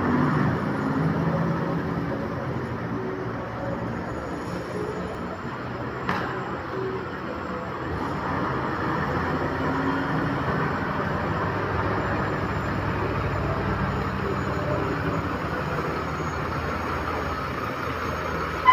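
Steady vehicle engine and traffic noise, with a short click about six seconds in and a sharper click at the very end.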